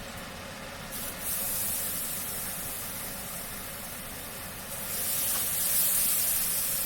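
Chicken wraps sizzling in a hot frying pan, the sizzle growing louder about a second in and again about five seconds in. The pan is hot enough to give off a little smoke.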